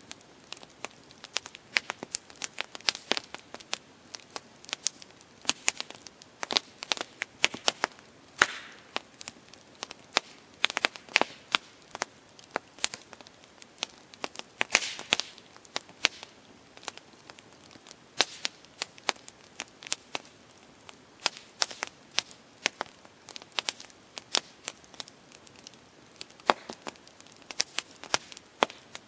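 Campfire crackling: irregular sharp pops and snaps, several a second, over a faint steady hiss, with a few louder snaps among them.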